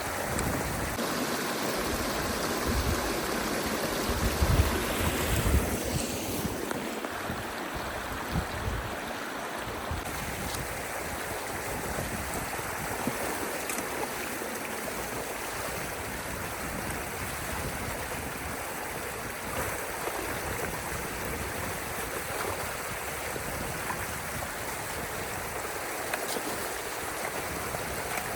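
Water flowing steadily through a drainage channel at a beaver dam, with a few low rumbling bumps in the first several seconds.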